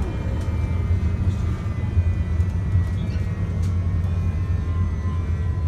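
Stadler Citylink tram-train running along the line, heard from inside: a steady low rumble of wheels on rail with a faint steady whine above it.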